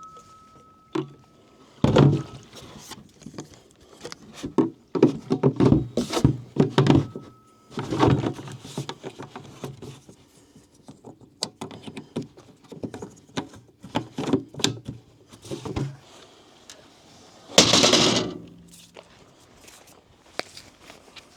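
A run of irregular thunks and knocks of objects being handled and set down, in clusters with a loud clunk about two seconds in and another near the end. A steady high tone sounds briefly twice.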